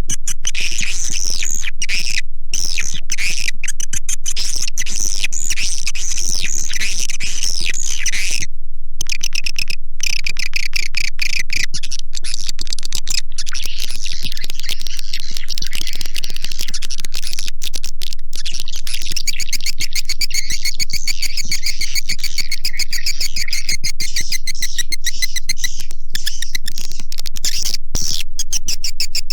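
Recorded swiftlet calls: a dense, continuous chatter of high twittering chirps and rapid ticks, many birds at once. This is a swiftlet calling track played to lure swiftlets into a bird house, with a steady low hum underneath.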